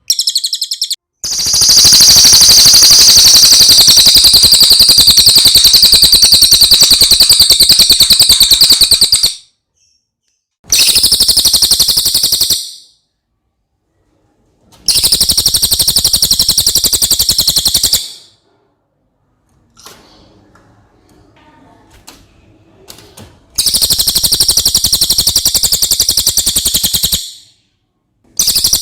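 Cililin, the yellow-throated hanging parrot, singing a loud, very rapid high-pitched trill in long bursts of several seconds, five in all, with short pauses between them.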